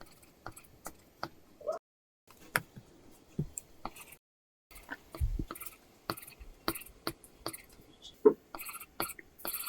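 Apple Pencil tip tapping and scratching on an iPad screen covered with a paper-texture film: irregular taps mixed with short drawing strokes, with denser scratching near the end. The sound drops out to total silence twice, briefly.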